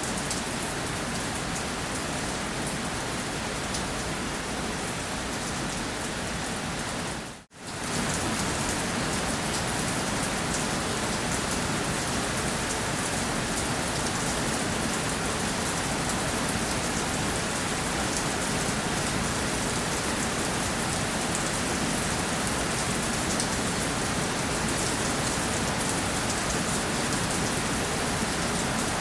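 Steady rain falling on a surface: a dense, even hiss of drops. About seven seconds in, it cuts out for a split second and comes back slightly louder.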